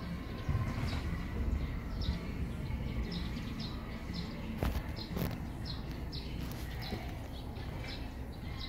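A small bird chirping over and over, short high chirps one or two a second, over a steady low rumble. Two sharp clicks come about halfway through.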